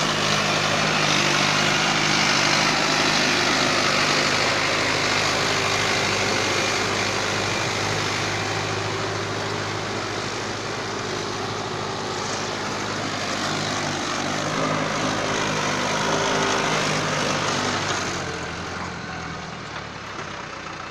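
Mahindra tractor's diesel engine running steadily while pulling a plough, with a loud rushing noise over the engine note that eases off about three seconds before the end.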